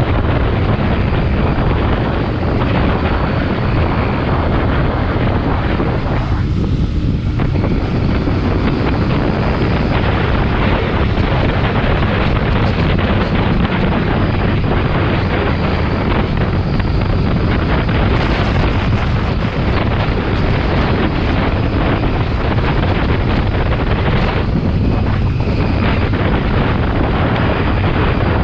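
Motorcycle riding at speed: wind buffeting the microphone over the steady running of the engine. The wind rush eases briefly twice, once about a quarter of the way in and again near the end.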